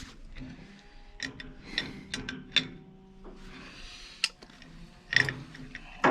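Scattered metallic clicks and taps of pipe grips working on a stuck, Loctite-sealed fitting on a heating pipe, with a faint steady hum underneath.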